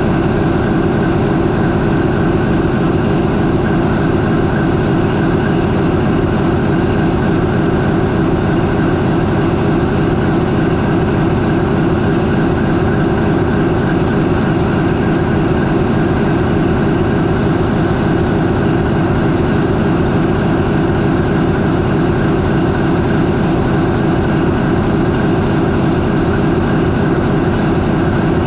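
MAN 20V28/33D STC twenty-cylinder marine diesel main engine running steadily at its 400 RPM idle: a loud, even drone with no change in speed.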